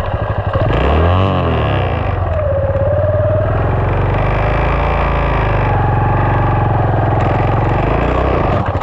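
SSR 189 dirt bike's single-cylinder four-stroke engine running under way, distorted on the camera's microphone. The revs rise and fall about a second in, then settle to a steadier pull.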